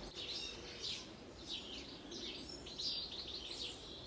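Small birds chirping and singing, short repeated high chirps overlapping continuously.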